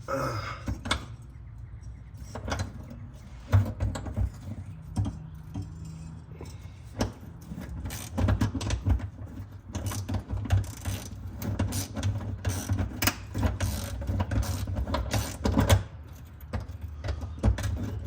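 Hand tools working on metal car parts: many irregular clicks, clinks and knocks of pliers or a wrench on a stuck fastener that keeps spinning instead of coming off.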